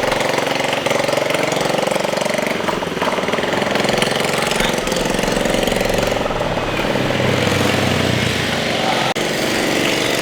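A small engine running steadily, its pitch wavering a little.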